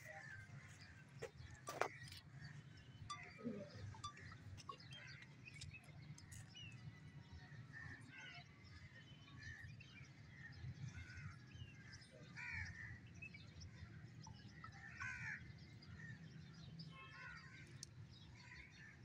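Faint outdoor quiet: scattered short bird calls and chirps come and go over a steady low background rumble, with one brief click early on.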